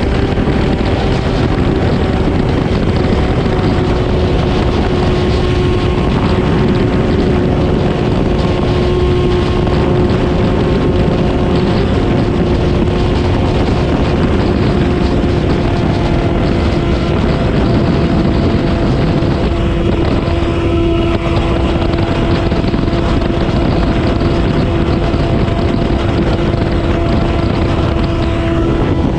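Motorcycle engine with an aftermarket slip-on exhaust running at a steady cruise, its note holding nearly constant and easing slightly lower. Heavy wind rush over the microphone comes from riding.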